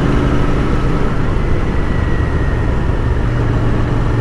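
Royal Enfield Continental GT 650's parallel-twin engine running steadily while the bike is ridden, with a constant rush of riding noise under it.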